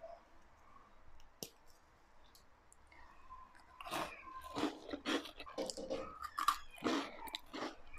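Someone biting and chewing a crisp baked butter cookie: irregular crunching starts about four seconds in, after a quiet stretch with one faint click.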